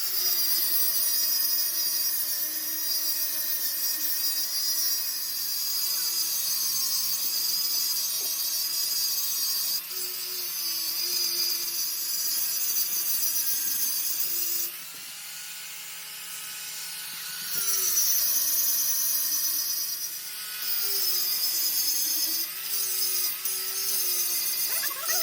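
Electric power tool motor running while working on metal, its pitch sagging and recovering as the load changes, over a steady high hiss of cutting. For a couple of seconds past the middle the hiss stops and the motor speeds up freely, then the cutting starts again.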